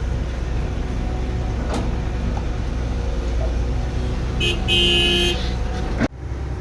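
Heavy diesel machinery running steadily with a low rumble, and a vehicle horn sounding twice about four and a half seconds in: a short toot, then a longer blast.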